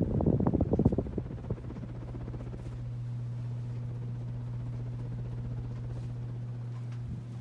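Hampton Bay Carousel II ceiling fan running: for about the first second and a half its moving air buffets the microphone in rapid low pulses, which die away to leave the steady hum of the fan motor. A light click comes near the end.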